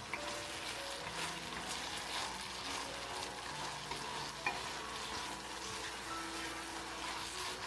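Food sizzling and crackling in a hot frying pan while it is stirred, with a short clink of a utensil against the pan about halfway through.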